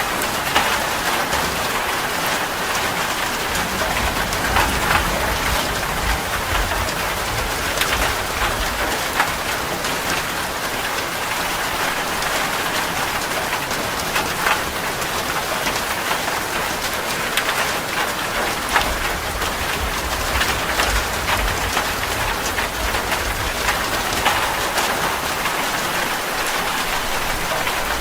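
Heavy rain falling steadily on a metal roof, with many sharp individual drop impacts. Low thunder rumbles swell up twice.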